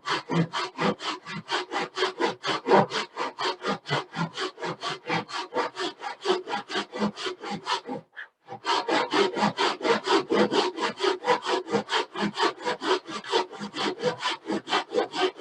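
Pull saw cutting across a clamped wooden board with quick, even back-and-forth strokes, about four or five a second, pausing briefly just past the halfway point. The saw is held at a shallow angle, working the kerf across the full width of the board.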